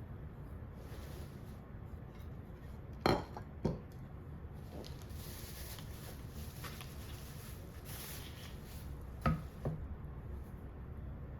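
Small objects handled on a hard table surface: two pairs of sharp light knocks, one a few seconds in and one near the end, each pair about half a second apart, over a quiet room hum.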